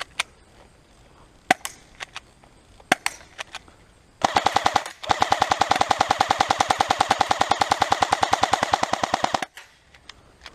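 Airsoft rifle firing: a few single shots, then a short full-auto burst about four seconds in, followed by a long, even full-auto burst lasting about four seconds.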